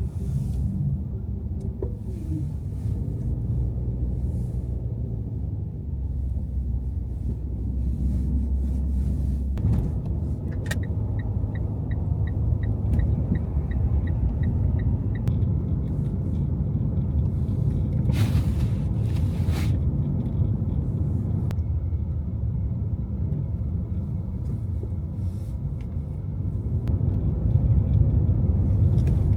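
Car driving through city streets: a steady low rumble of engine and tyres on the road. For a few seconds near the middle, a run of short high beeps about three a second.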